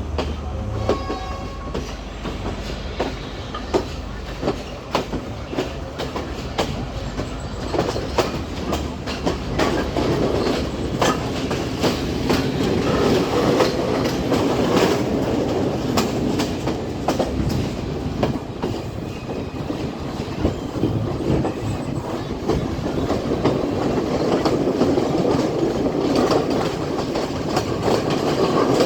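Class S12 diesel multiple unit on the move, its wheels clicking over rail joints over a steady running rumble that grows louder as the train picks up speed.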